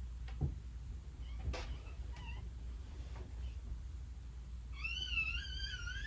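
A cat meowing: one long, wavering meow near the end, after a few faint clicks and short chirping sounds, over a steady low hum.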